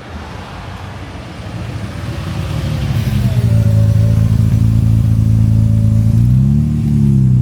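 A car engine growing louder, then idling loudly and steadily from about three seconds in, with one short rise and fall in revs near the end.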